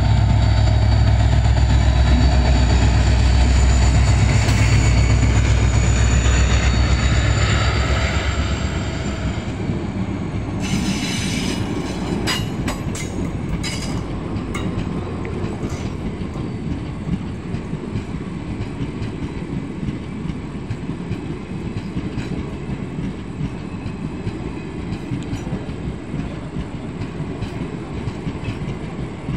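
A passenger train passing close by: the diesel locomotive's engine drones loudly for the first eight seconds or so, then fades as the coaches roll past with a steady rumble. Between about ten and fourteen seconds in, the wheels clack sharply over the rail joints.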